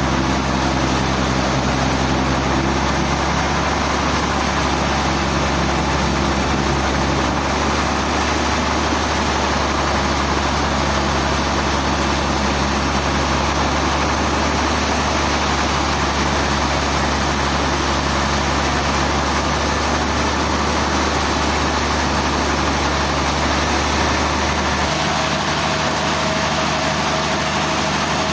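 Sawmill machinery running steadily: an engine's low hum under a dense, hissing mechanical noise. About 25 seconds in the hum shifts and a higher steady tone comes in.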